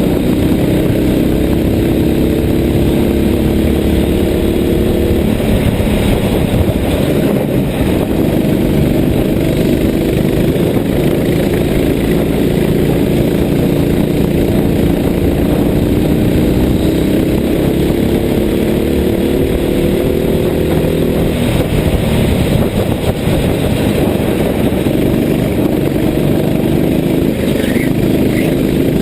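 Kart engine running hard, its note climbing slowly on the straights and dropping off into the corners, twice over.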